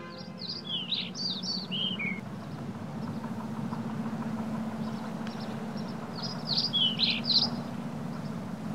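A songbird singing two short phrases of quick chirps, each stepping down in pitch, the first at the start and the second about six seconds in. A steady low hum comes in after about two and a half seconds.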